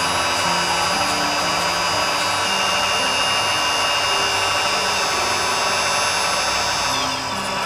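Electric hydraulic pump of an R/C model crane truck whining steadily under load. Its pitch shifts a little partway through and it eases off near the end.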